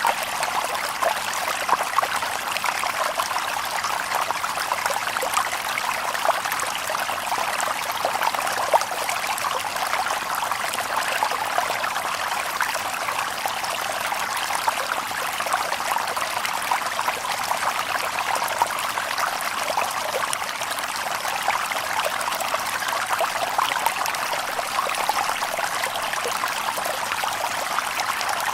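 Small stream babbling and trickling over stones, a steady splashing without any low rumble.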